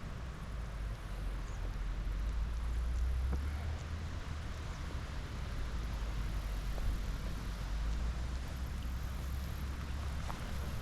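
Wind buffeting the microphone: a steady low rumble that swells and eases, with a few faint clicks.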